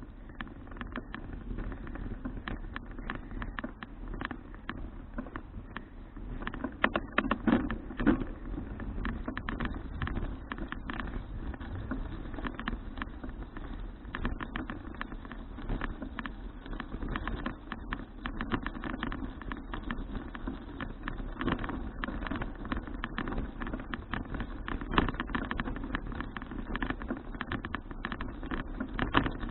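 Folding bicycle riding along: tyres rumbling on the road with a steady run of small irregular rattles and clicks from the bike.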